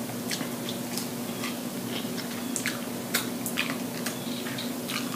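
Close-up wet chewing and lip smacking on a mouthful of french fries, a run of short moist clicks, with fingers being sucked clean near the end. A steady low hum runs underneath.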